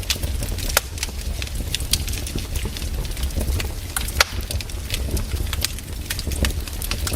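Firewood burning in a fire, crackling with irregular sharp pops and snaps over a low steady rumble.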